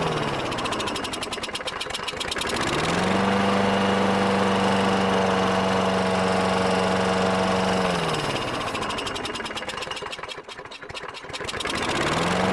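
Briggs & Stratton single-cylinder engine on a Craftsman push mower running. It drops twice from a steady fast speed to a slow, uneven idle where single firing strokes can be heard, and picks back up each time. To the owner it is now running a lot better.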